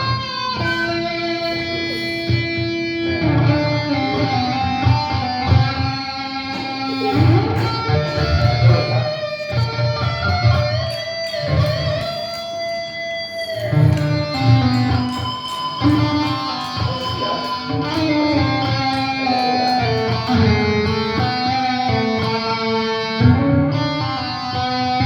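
Guitar playing a slow rock lead melody of sustained single notes with bends and slides, over a low, bass-heavy backing.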